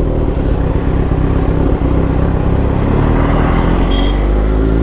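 Kawasaki Z900 inline-four motorcycle engine running under way, its pitch climbing in the second half as the bike accelerates.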